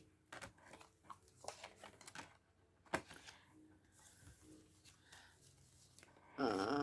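Paper envelopes and cards being handled: soft rustling and light taps, with one sharper click about three seconds in. A short voice sound comes near the end.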